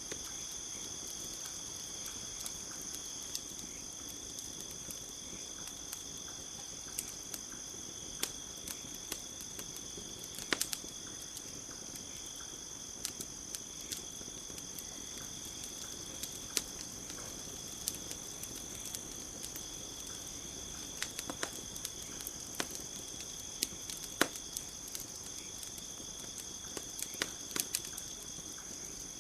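A campfire crackling, with irregular sharp pops, over a steady high chorus of crickets.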